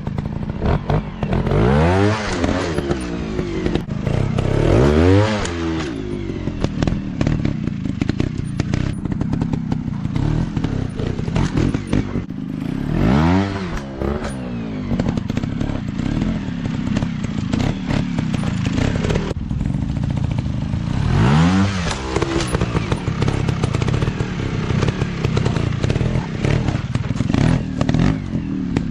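Dirt bike engines revving hard and dropping back, over and over, with strong surges in pitch about 2, 5, 13 and 21 seconds in and a steady run of engine sound between.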